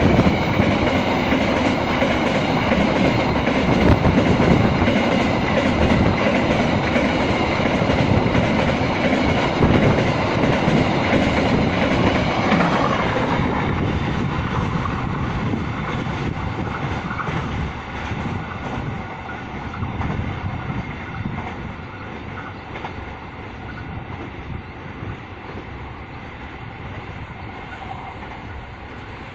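Freight train wagons rolling past, wheels clattering over the rail joints; the sound fades steadily over the second half as the train moves away.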